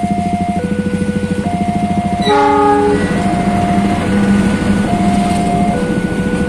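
Railroad crossing warning bell sounding steadily, alternating between two tones. A diesel locomotive passes: a short horn blast a little over two seconds in, then the engine and the wheels on the rails get louder as the locomotive and its coaches go by.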